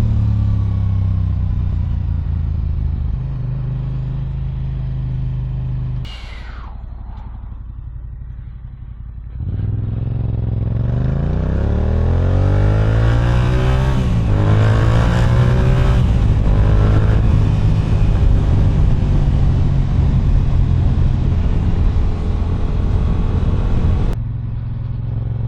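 Yamaha R7's CP2 parallel-twin engine through an Akrapovic exhaust, ridden in traffic. It runs steadily, drops to a quieter note about six seconds in, then revs up and down several times as the bike pulls away, holds a steady note, and eases off near the end.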